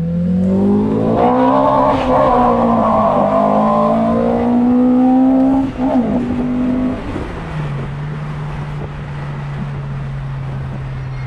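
Nissan SR20 VVL four-cylinder engine revved up quickly and held at high revs for about five seconds, blipped once more, then let fall back to a steady idle about seven seconds in.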